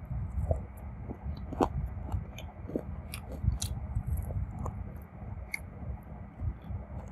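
A person chewing and biting food close to the microphone, with irregular crisp clicks and crunches through the chewing.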